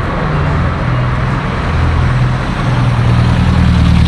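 Car engine running close by amid street traffic, a low hum whose pitch steps up and down a few times and grows a little louder near the end.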